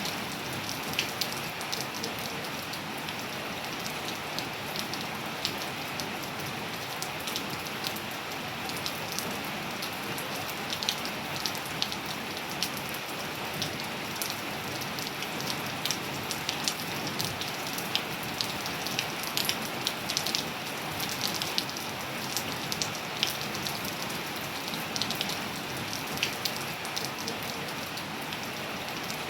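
Steady rain falling on hard and leafy surfaces, an even hiss with many close, crisp drop ticks and splats scattered throughout.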